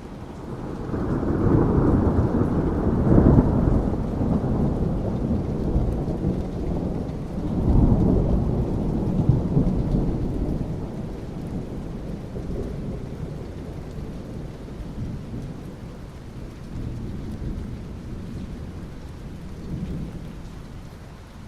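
Thunder rumbling over steady rain. The deep rumble swells to its loudest a few seconds in, rolls up again around eight seconds, then slowly dies away under the rain's hiss.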